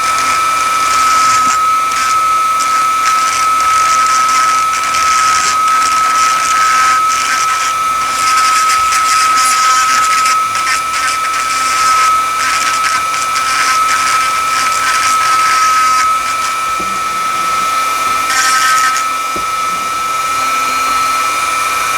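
Dremel rotary tool running with a fine stone grinding bit against the steel of a G clamp, working off leftover blue paint. A steady high whine sounds throughout, with a grinding hiss that comes and goes as the bit is pressed onto the metal.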